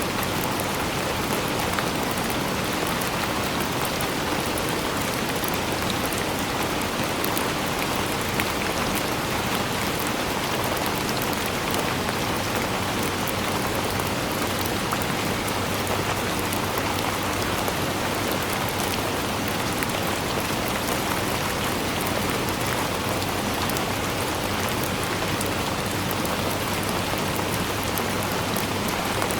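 Steady rainfall: an even, unbroken hiss full of countless small drop impacts, with no change in intensity.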